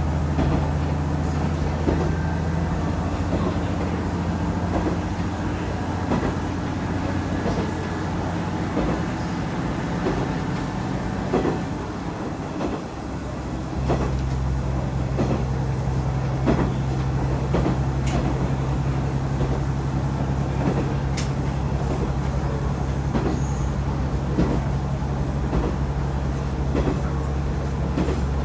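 KiHa 110 diesel railcar running at speed, heard from inside the car: a steady low engine and running drone with repeated clicks of the wheels over rail joints. About halfway through the drone dips briefly, then comes back at a steady, different pitch.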